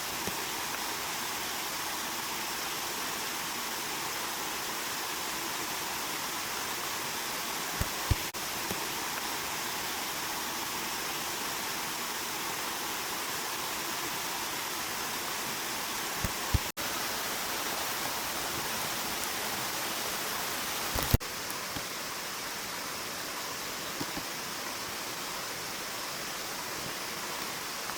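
Steady rushing water, an even, unbroken hiss, with a few brief soft knocks, the sharpest about 21 seconds in.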